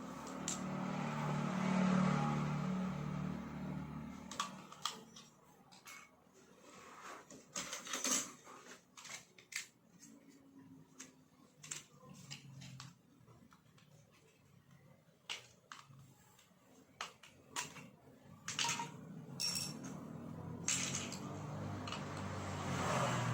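Small hard parts and tools clicking and clinking while a trimmer is taken apart, with a steady hum in the first few seconds and again near the end.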